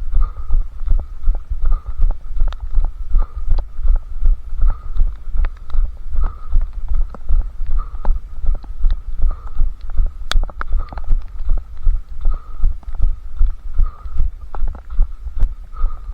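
Running footsteps: a steady, even rhythm of heavy low thuds, close to three strides a second, carried through a head-strapped camera that jolts with each stride. Light clicks and ticks come in between the thuds.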